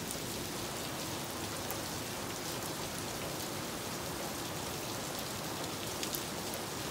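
Steady rain falling, an even hiss with a few faint clicks of single drops.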